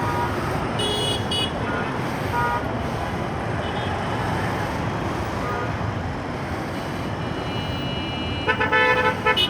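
Steady road and wind noise of a motorcycle riding in traffic, with short vehicle horn toots about a second in and a run of several loud horn toots near the end.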